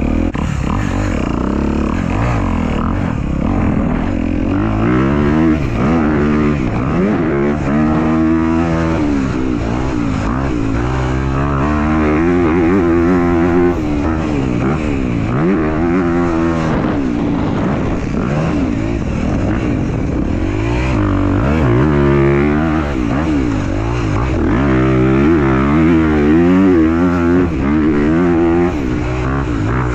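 Dirt bike being ridden, its pitch rising and falling with the throttle over and over.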